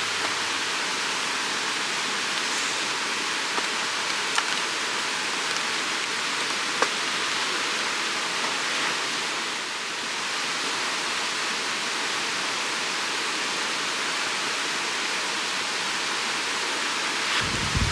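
River water rushing steadily, with a few faint sharp ticks over it. A low rumble comes in near the end.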